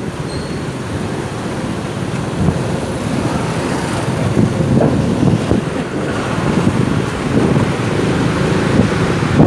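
Motorcycle running along a road, its engine and road noise under steady wind buffeting on the microphone.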